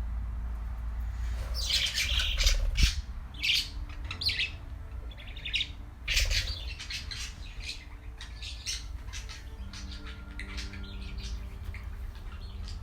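Pet birds calling in short, sharp, high-pitched calls, coming in flurries about two and six seconds in and scattered through the rest, over a steady low hum.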